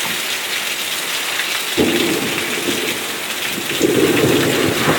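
Heavy rain pouring down in a severe thunderstorm, with rumbles of thunder that come in suddenly about two seconds in and again, louder, near the end.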